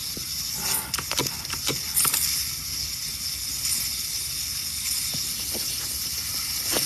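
Steady high-pitched hiss of refrigerant escaping from a leak in an HVAC line, with crackling clicks of leak-detection bubbles being blown out. The clicks are busiest about one to two seconds in.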